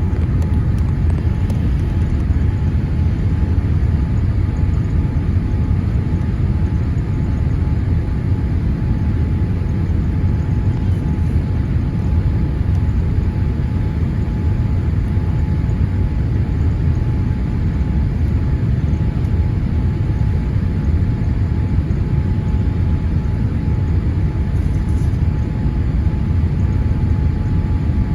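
Steady cabin noise inside a Boeing 787-8 airliner on its landing approach: a deep, even rumble of engines and airflow, with a faint steady whine above it.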